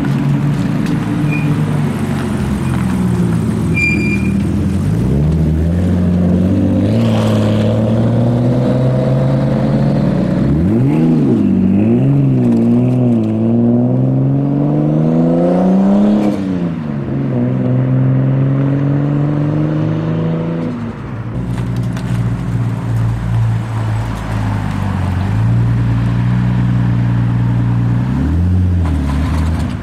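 Nissan Skyline R33 car engines pulling away and being revved, the pitch sweeping up and down with throttle blips, then climbing steadily under hard acceleration before a gear change and fading as the car drives off. A short rev near the end comes from a blue Skyline R34 about to pull out.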